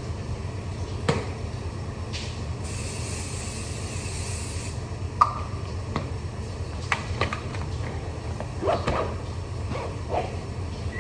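Toiletries and small objects being handled while getting ready, with scattered clicks and knocks over a steady low hum. About three seconds in there is a hiss lasting about two seconds.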